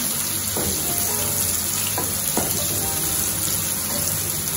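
Chopped seasoning vegetables sizzling steadily as they fry in cooking oil in a pot, with a few light knocks in the first half.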